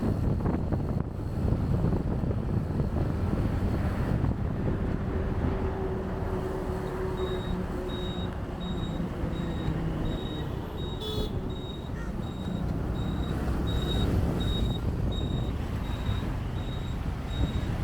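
Motorcycle riding through dense city traffic: a steady mix of engine and road noise with traffic around. From about seven seconds in, a high electronic beep repeats roughly twice a second.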